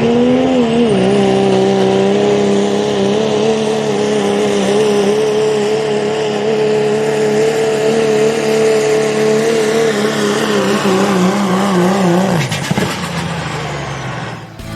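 Diesel pickup truck engine at full throttle pulling a sled, held at steady high revs for about twelve seconds, then winding down as the throttle comes off near the end.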